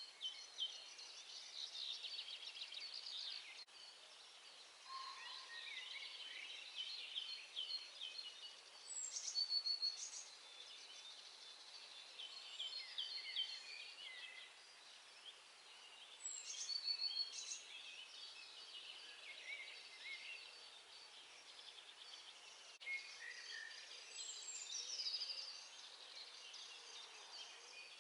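Dawn chorus of several songbirds singing at once, overlapping trills and chirping phrases, one bird repeating the same short song every several seconds, over a faint steady hiss.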